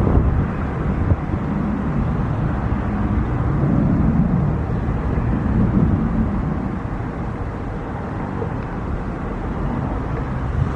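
Jet airliner engines, a steady low rumble, with wind buffeting the microphone.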